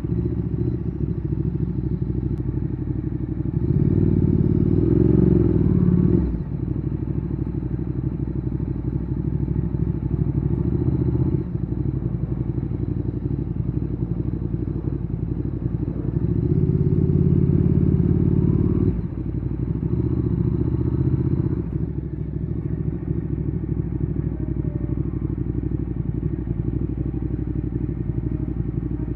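Ducati Streetfighter 848's L-twin engine running through a Termignoni exhaust while riding. It gets louder twice, about four seconds in and again past the middle, holds for a couple of seconds each time, then drops back suddenly to a steady lower running note.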